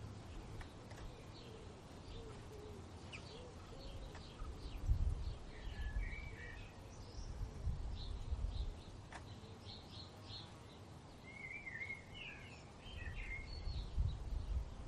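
Several songbirds chirping, with short warbled phrases about six seconds in and again near the end, over low rumbling gusts of wind.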